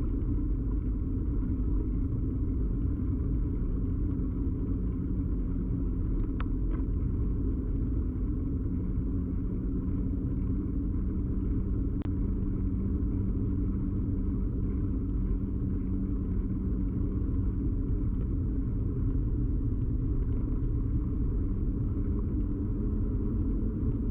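Steady low rumble of a moving bicycle picked up through a camera fixed to the bike: road and tyre vibration carried into the mount, with a faint steady hum in it and a couple of faint ticks.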